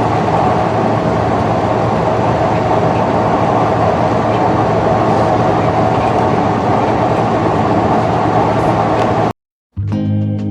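Steady engine and road noise inside a moving tour bus. It cuts off suddenly about nine seconds in, and acoustic guitar music starts a moment later.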